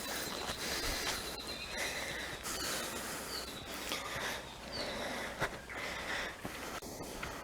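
Footsteps on a bush track and a walker's heavy breathing on an uphill climb, with birds calling now and then: a held high whistle early on and short high chirps later.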